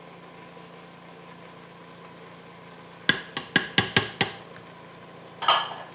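A spice container tapped six times in quick succession, about five taps a second, to shake paprika into the pot, followed a second later by a short rattling burst, over a steady low hum.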